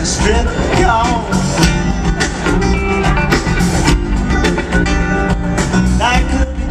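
Live rock band playing an instrumental passage, a lead guitar bending notes over a steady bass and drums, recorded loud from the audience on a small camcorder microphone.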